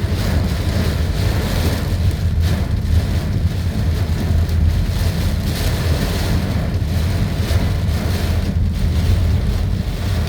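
Strong wind buffeting the microphone in a heavy rainstorm: a loud, steady low rumble with a rushing hiss that swells and eases.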